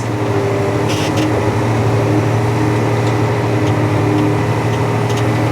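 John Deere 8235R tractor's diesel engine running at a steady, even speed, a constant drone with a few faint ticks.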